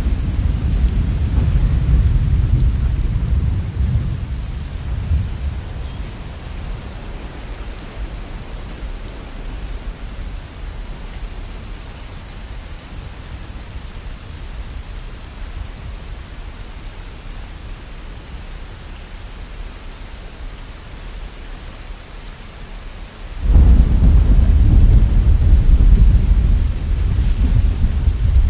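Heavy rain falling steadily, with thunder: a low rumble dies away over the first few seconds, and a loud rumble of thunder breaks in suddenly near the end.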